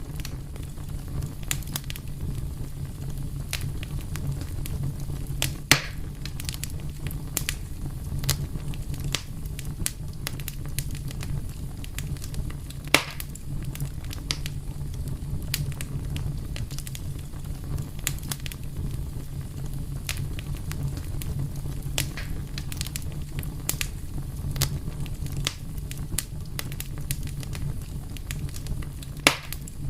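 Fire crackling: irregular sharp pops and snaps over a steady low rumble, with louder pops about 6, 13 and 29 seconds in.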